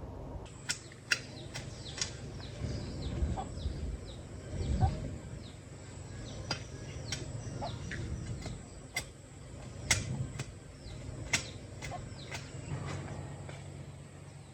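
Chickens clucking and peeping with short falling chirps, among sharp scattered clicks and low knocks.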